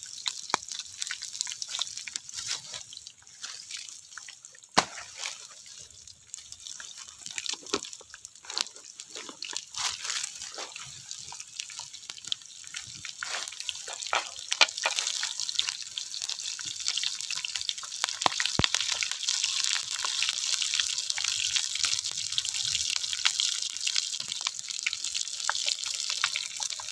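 Small birds deep-frying in hot oil, being fried dry: steady sizzling with many scattered pops and crackles, growing louder about halfway through.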